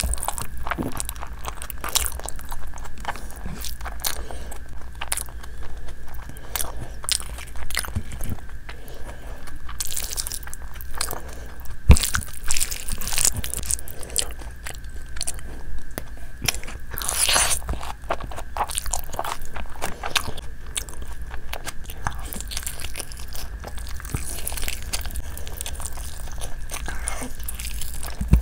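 Close-miked chewing and biting of spicy fried rice and chicken eaten by hand, with many small irregular mouth clicks and one sharp click about twelve seconds in.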